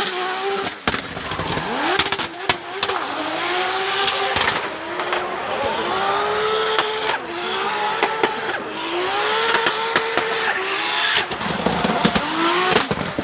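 Car engine driven hard, its pitch climbing and dropping again several times as it accelerates and shifts, over heavy tyre and road noise.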